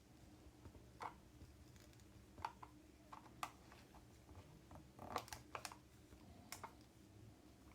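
Faint, scattered small clicks and taps of hands handling and arranging crafting materials, about a dozen, over near-silent room tone.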